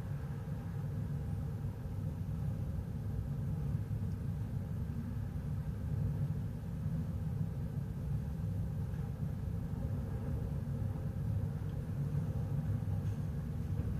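Steady low rumble of the car ferry Azalea's engines and machinery, with a faint constant hum above it.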